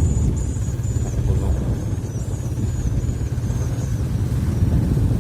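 Steady low rumble of a moving vehicle, with a faint high chirping repeated about twice a second over it.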